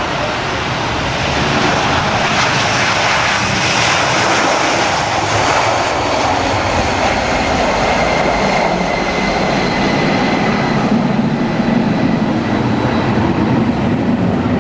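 Airliner engines at high power, a loud steady rush of noise. The hiss is strongest a few seconds in, and a deeper rumble takes over near the end, as the aircraft moves past.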